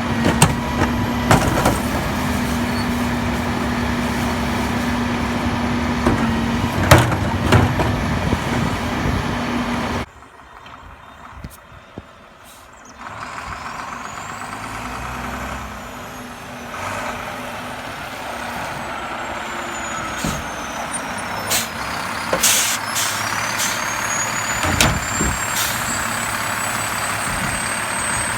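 Garbage truck running, its engine and hydraulics giving a steady hum with sharp clanks; the sound cuts off abruptly about ten seconds in. After a few quieter seconds a truck is heard again, with short hisses and a high whine that rises near the end.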